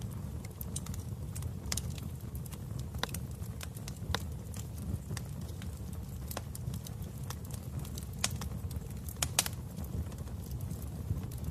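Wood fire in a fireplace crackling: irregular sharp pops and snaps over a steady low rumble of the flames, with a couple of louder pops past the middle.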